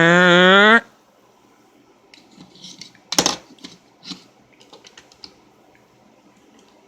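A rising, engine-like revving sound that cuts off suddenly under a second in, then small toys being handled: scattered light plastic clicks and knocks, one sharper knock about three seconds in.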